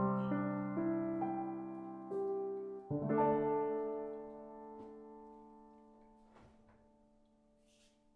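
Soft background piano music: a few slow notes, then a final chord about three seconds in that rings on and fades away.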